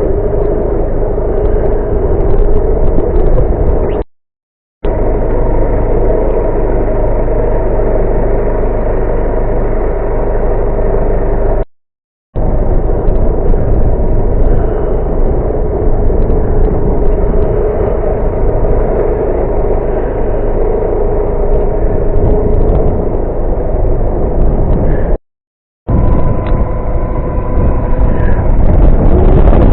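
Vehicle engine and road noise, loud and steady with a constant hum, broken three times by short dead-silent gaps.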